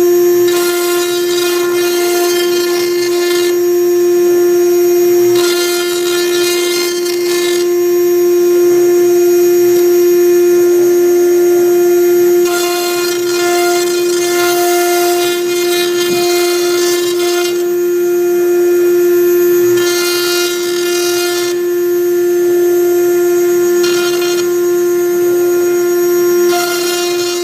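CNC router spindle running with a steady high whine while a V-bit engraves MDF, with a higher rasping noise that comes and goes every few seconds.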